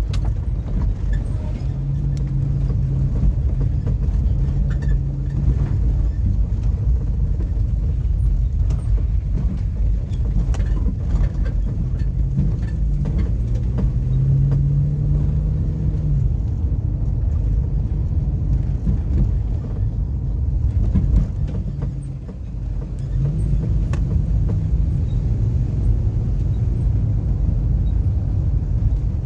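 Car driving, with steady low road rumble and an engine hum that rises and falls in pitch as it speeds up and slows. There is a few faint knocks, and a brief easing of the rumble about three-quarters of the way through.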